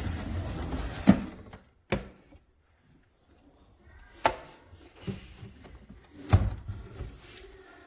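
A few sharp knocks and clatters, as of hard objects being handled and set down, with a rustling noise over the first two seconds.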